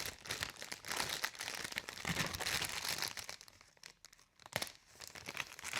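Packaging crinkling and rustling as it is handled and pulled open, with a sharp click near the end.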